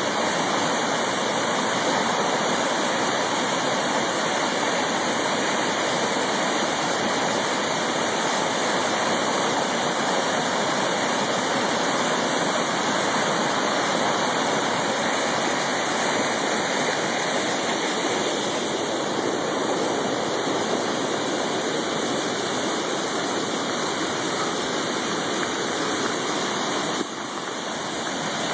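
A river in flood rushing past, a steady loud wash of fast water that dips briefly near the end.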